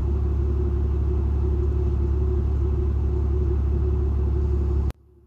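Steady low rumble of a truck heard from inside the cab, with a steady hum over it; it cuts off abruptly near the end.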